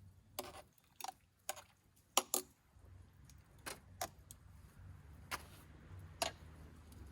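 About ten light, sharp metallic clicks and clinks at irregular spacing, typical of camp cookware and utensils being handled; the loudest pair comes a little past two seconds in. A faint low steady rumble sets in about three seconds in.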